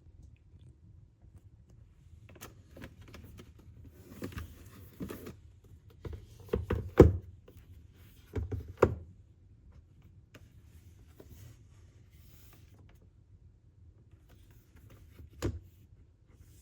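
Irregular knocks and clicks of objects being handled, with the loudest thunks about seven and nine seconds in and one more near the end.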